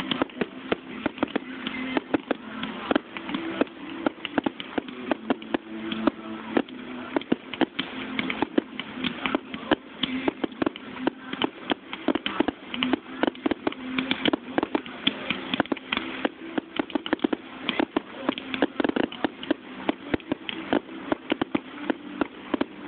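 Fireworks display in a rapid barrage: shells bursting and crackling several times a second, with no let-up, over a steady low hum.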